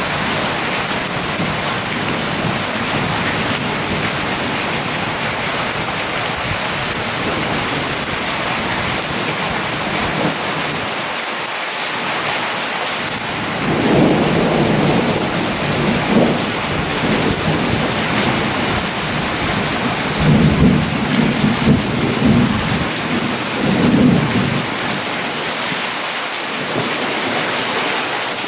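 Steady heavy rain hissing throughout, with thunder rumbling in from about halfway through in several rolling swells for some ten seconds before dying away.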